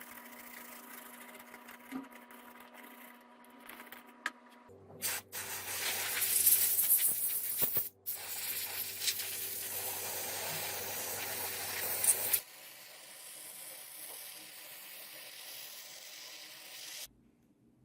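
Loud, steady hissing spray for about seven seconds in the middle, in cut-together clips. Quieter stretches before and after carry a steady hum, and the sound changes abruptly at each cut.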